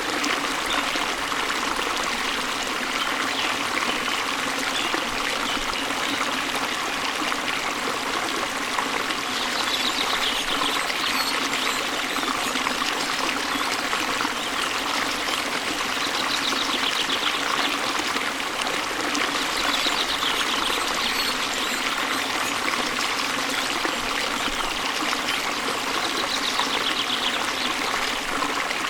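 Waterfall and stream splashing and flowing steadily. A bird's short trill cuts through the water four times.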